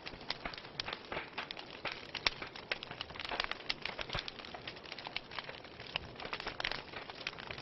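Wood fire burning in a fireplace, crackling with a dense run of irregular sharp pops and snaps over a soft steady hiss of flames.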